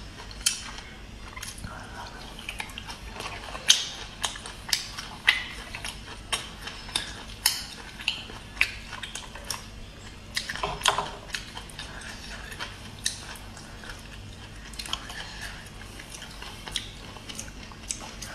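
Close-up chewing of firm, chewy braised abalone and turban-snail meat: irregular sharp wet clicks and smacks from the mouth, with a louder cluster about halfway through.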